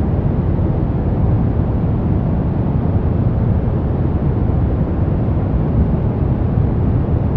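Brown noise: a steady, even rumble of synthetic noise, deep and heavy in the lows with little treble, unchanging throughout.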